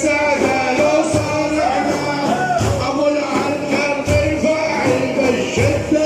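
Devotional praise singing by male voices, the melody held and ornamented without clear words, over drum beats that come about once a second.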